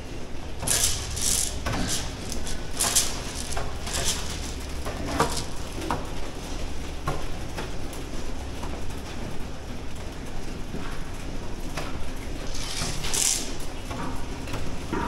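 Pig barn ambience: a steady low hum with scattered short bursts of rustling and clatter.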